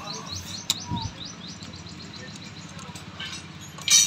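A small bird chirping repeatedly in the background, a quick series of short high notes, over a faint steady low hum. Just before the end comes one sharp metal clink as pliers touch the motorcycle engine's cam sprocket.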